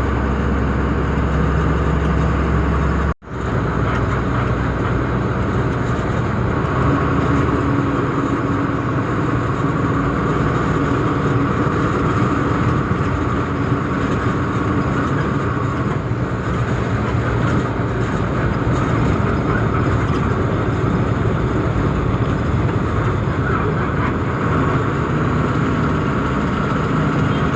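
Tata truck's diesel engine and road noise while driving, steady throughout. About three seconds in, the sound drops out for an instant and resumes with less deep hum, like a cut between clips.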